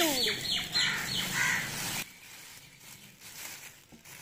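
Birds chirping in quick, falling high chirps, several a second, that cut off suddenly about two seconds in. After that only a faint rustle remains as dry husks are poured into a cardboard box.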